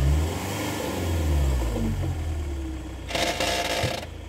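Ford Mondeo's engine revving up and down twice in reverse as the driver tries to back out. The car is stuck in a ditch with a wheel broken off, so it does not move.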